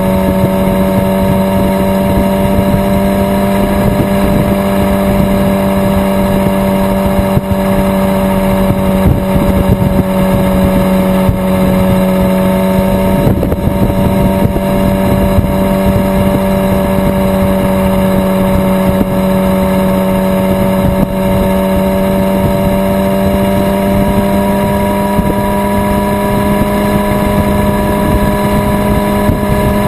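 Yamaha R6 inline-four sport bike engine running steadily at highway cruising speed, a constant high-revving drone whose pitch creeps up slightly in the last few seconds, over a steady rush of wind and road noise.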